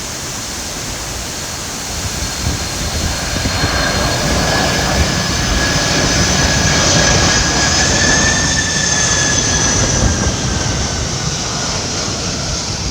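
Jet airliner landing: a loud, steady engine roar with a high turbine whine drifting in pitch, swelling towards the middle and easing off near the end.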